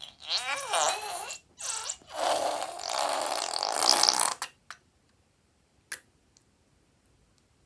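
Air squeezed out in a fart-like sputter with a wavering pitch, twice in short spurts, then a longer noisy rush running to about four and a half seconds in. A single sharp click comes near six seconds.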